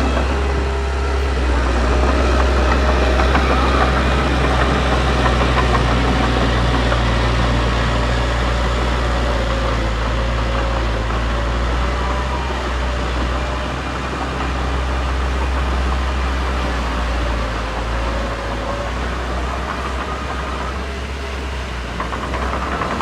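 Diesel engine of heavy earthmoving machinery running steadily with a deep drone, with faint wavering squeals over it.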